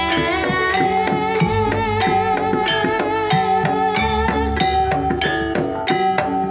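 Banyumasan gamelan music in tayub style: an even, steady stream of struck notes from metallophones and drums, with a long, slightly wavering melody line held above them.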